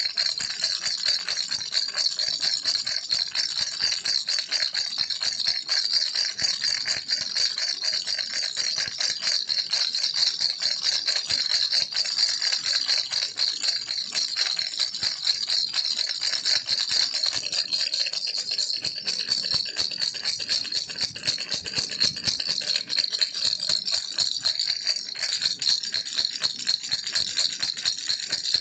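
A baby's rattle shaken without pause: a dense, steady stream of fast, bright rattling clicks.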